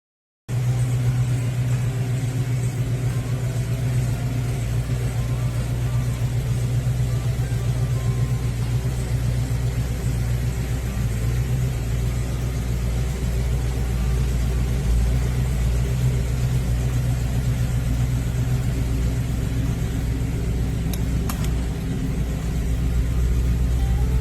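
A 360 small-block V8 idling steadily with a low exhaust rumble. A couple of faint clicks come about 21 seconds in.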